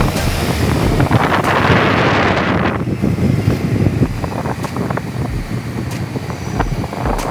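Wind buffeting the microphone of someone riding a scooter, a heavy low rumble with a stronger gust about two seconds in.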